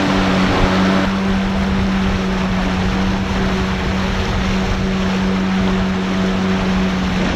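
Outboard motor of a river longboat running steadily under way, with a rushing noise of water and wind. Its note changes slightly about a second in.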